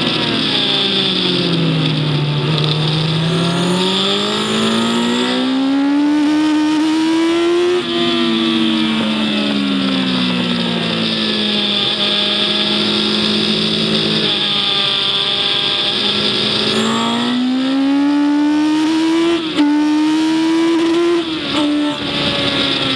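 Onboard engine sound of a vehicle lapping a race circuit. The engine pitch climbs under acceleration, breaks at gear changes about a third of the way in and again near the end, and falls away between them, over a steady rush of wind.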